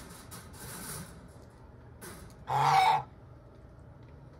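A single loud call from backyard poultry, lasting about half a second, a little past halfway through; otherwise only low background sound.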